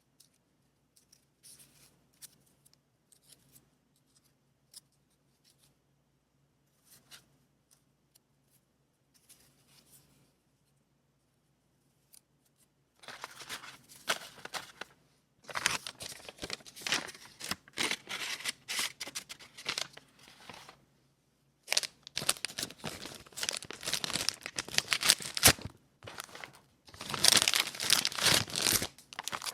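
Packaging or paper being torn open and crinkled by hand, in several long stretches starting about thirteen seconds in. Before that, only scattered light clicks and taps.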